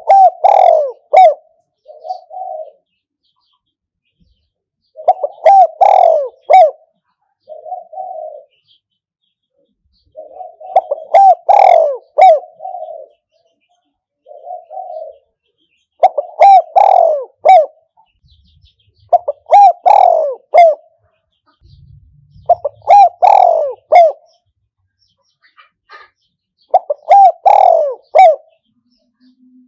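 Spotted dove cooing: loud phrases of a few low coos repeated every few seconds, most followed by a softer single coo. This is the call of a decoy bird used to lure wild spotted doves.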